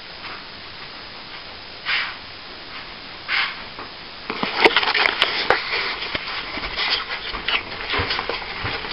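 A hand tool scraping at plaster: two short scrapes, then from about four seconds in a steady run of rough scraping with small clicks and crackles.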